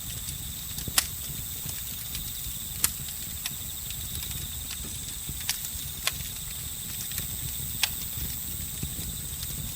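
Campfire crackling with about six sharp pops at irregular intervals, the loudest about a second in, over a steady high trill of crickets and other insects.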